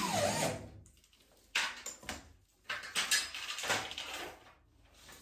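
Handling noises: a short squeal at the start, then several separate bursts of scraping and clattering.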